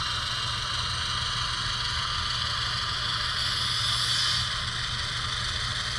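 HO-scale model locomotive running slowly as it shoves cars toward a coupling: a steady whir and hiss over a low hum, swelling a little around the middle.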